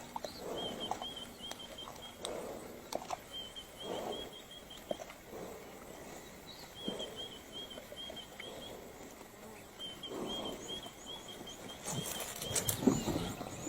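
Soft rustling and patter, with thuds about once a second, under short runs of high, rapidly repeated chirps from a bird or insect. Near the end there is a louder flurry of clicks and rustles.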